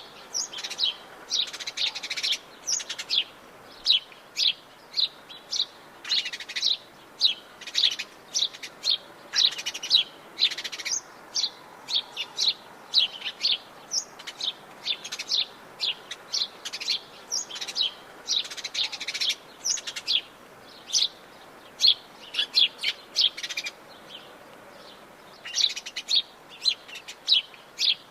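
Several birds chirping and singing in the Atlantic Forest: a dense chorus of short, high chirps and whistles, several a second, over a faint steady hiss, with a short lull about two-thirds of the way through.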